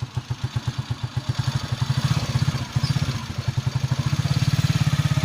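Small engine running steadily with a rapid, even beat of about ten pulses a second, growing louder about two seconds in.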